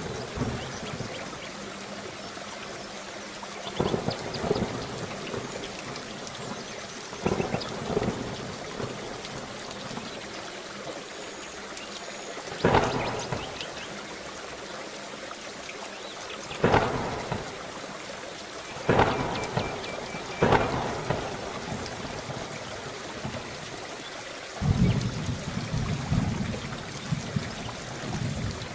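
Steady heavy rain with about seven sudden thunderclaps spread through, each fading off; the last, near the end, is a longer, deeper rumble.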